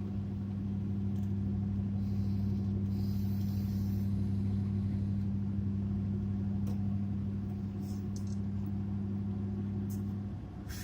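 Pickup truck running at a steady cruising speed, a constant low engine and exhaust drone that fades out about ten seconds in.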